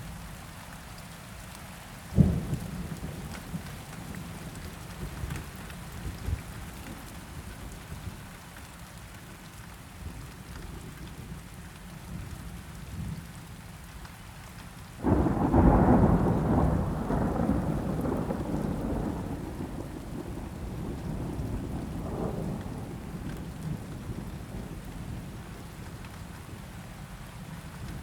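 Steady rain with thunder: a sharp crack about two seconds in, then a louder peal about halfway through that rumbles on and fades over several seconds.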